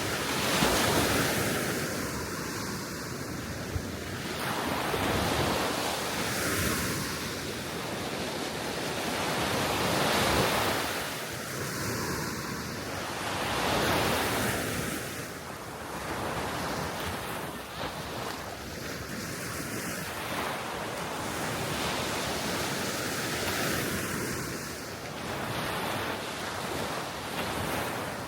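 Gentle sea waves washing onto the shore, swelling and fading every few seconds, with wind.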